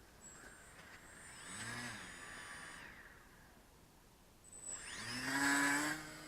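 Motor and propeller whine of a radio-controlled foam model airplane flying past twice, the pitch bending down as it passes. The second pass, about five seconds in, is the louder and closer one.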